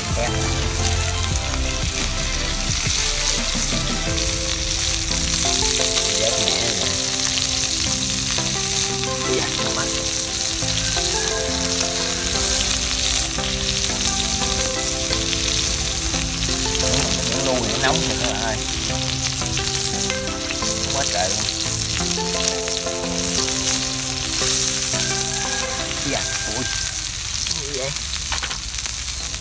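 Beef sizzling and crackling steadily on a hot clay-jar shard used as a griddle, with background music underneath.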